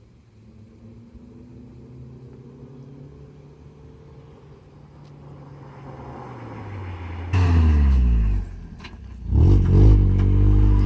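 Mazda Miata four-cylinder engine through a Magnaflow exhaust with a glasspack, driving by. Its note is faint at first and grows louder and higher as it approaches. About seven seconds in it becomes suddenly much louder with a falling pitch, dips briefly, then is loud again near the end.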